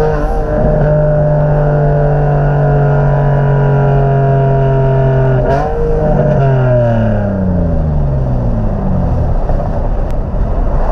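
Turbocharged Infiniti G37's 3.7-litre V6 pulling under steady acceleration, its note climbing slowly. About five and a half seconds in there is a brief break, then the engine note falls steadily as the car slows.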